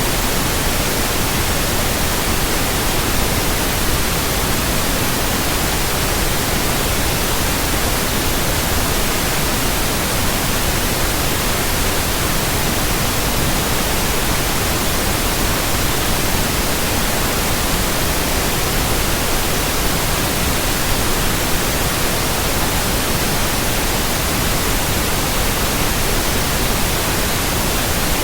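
White noise: an even, steady hiss spread evenly across the whole range from deep to high, without any change.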